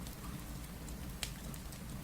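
Steady rain mixed with a crackling wood fire: a constant low rumble and hiss with scattered sharp pops, the loudest a little after a second in.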